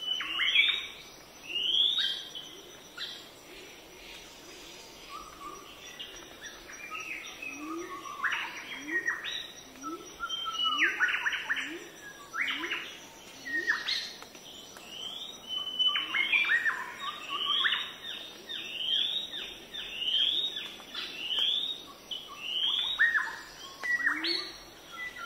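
Wild birds calling: many short, rising whistled notes and chirps, repeated throughout, with a run of lower rising notes in the middle.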